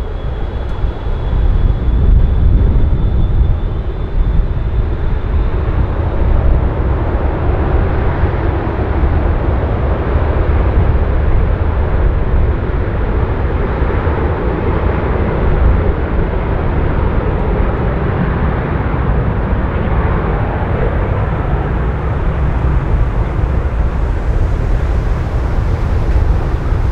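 Jet airliner passing low overhead: a loud, continuous jet rumble that swells through the middle, with a faint high whine falling slightly in pitch over the first few seconds.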